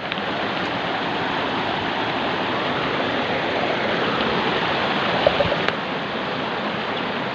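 Steady rushing of running water, like a stream, with a couple of faint knocks a little past five seconds in.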